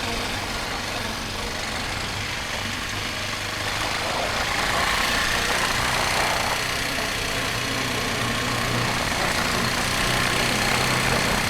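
Motorcycle engine running on the road, heard from a helmet-mounted camera under heavy wind and road noise; the rush grows louder about four seconds in as the bike picks up speed.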